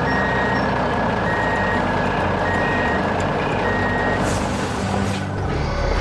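Heavy truck's reversing alarm beeping four times, each beep about half a second and a little over a second apart, over a diesel engine running. A short hiss follows the last beep.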